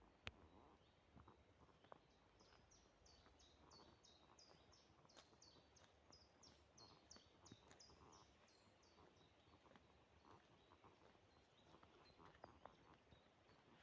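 A small songbird singing a long series of high, evenly repeated notes, about three a second, for some six seconds. Faint forest ambience runs underneath with scattered soft clicks, and one sharp click comes just after the start.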